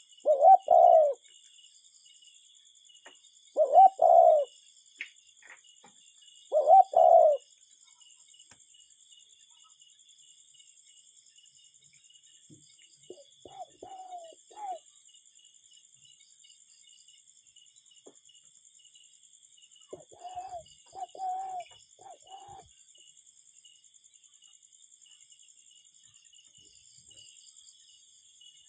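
Cuckoo calling its two-note "cu-ckoo" three times, about three seconds apart. Fainter calls follow later. A steady, faint, high insect trill runs underneath.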